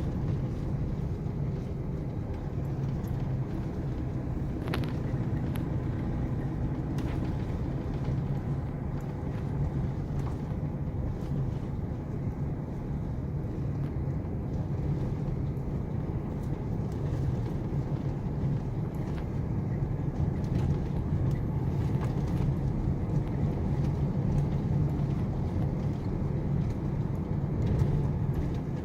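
A vehicle's engine drones steadily as it drives along a dirt track, with a few brief knocks and rattles.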